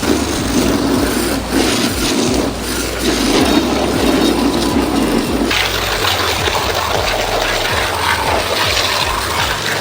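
High-pressure washer spraying water, with its pump motor running. The low pump sound breaks off briefly twice, then gives way to a broad hiss of spray about five and a half seconds in.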